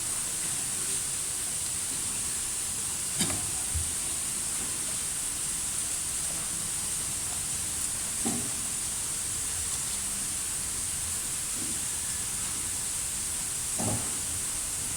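Steady high-pitched hiss, with a few light knocks about three seconds in, about eight seconds in and near the end.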